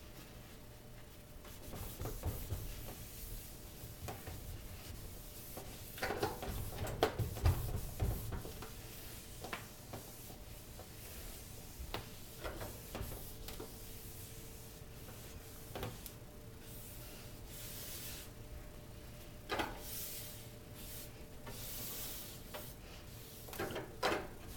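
Damp paper towels wiping and rubbing over the outside and door of a microwave, in short irregular strokes with a few light knocks, over a faint steady hum.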